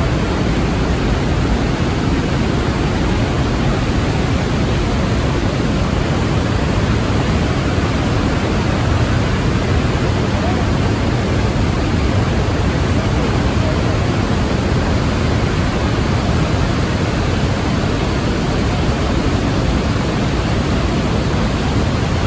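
Iguazu Falls: a loud, steady roar of falling water.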